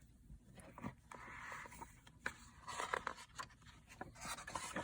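Paper pages of a picture book rustling as they are handled and turned, with a few faint taps.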